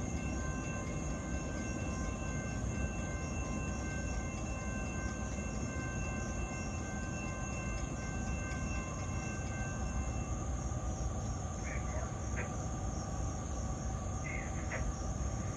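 Low rumble of an approaching CSX train, over a steady high drone of insects. A chord of several steady high tones holds, then stops about ten seconds in.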